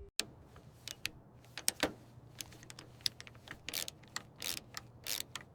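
Irregular light clicks and taps, unevenly spaced, a few of them longer with a short hiss, over a faint low hum.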